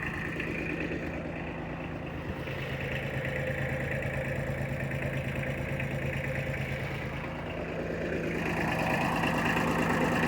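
Diesel engine of a 1979 Kubota L245DT tractor running steadily, picking up and growing louder about eight seconds in.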